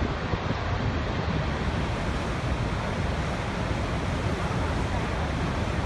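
Steady rushing noise, heaviest in the low rumble.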